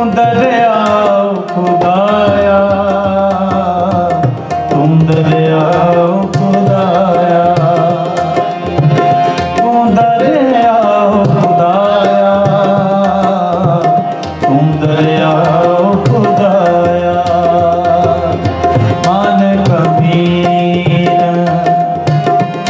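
Sikh kirtan music: tabla playing a steady rhythm under a harmonium melody over a held drone note.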